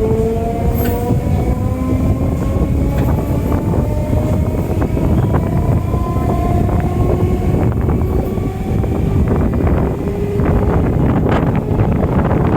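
Electric multiple unit local train running, heard from on board: a steady rumble of wheels on rail, with the traction motors' whine slowly rising in pitch as the train gathers speed. A run of sharp rail clicks comes near the end.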